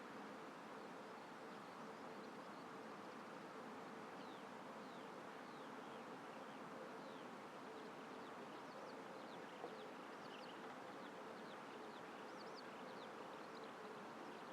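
Faint open-air ambience: a steady buzzing hum with many brief, high, falling bird chirps scattered through it, thicker in the second half.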